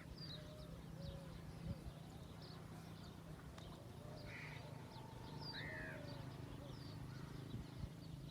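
Several birds chirping and calling at intervals, with higher short chirps scattered throughout and a louder arched call about five and a half seconds in, over a steady low hum and a few soft knocks.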